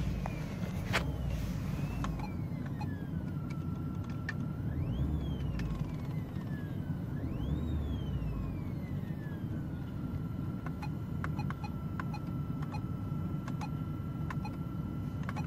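Whistling whine from the Ford Focus 3's speakers over the engine's hum. The pitch shoots up and slides back down three times as the engine is revved, then holds one steady tone from about halfway through. The owner traces this whistle to the rear left speaker's wiring; it appears when the headlights are switched on.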